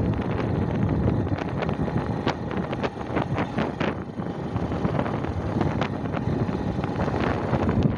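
Wind buffeting the microphone while riding a bike, a steady low rumble with scattered sharp clicks and rattles throughout.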